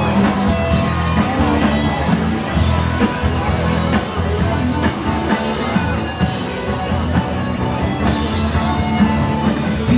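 Loud rock music with guitar and singing, as from a live band.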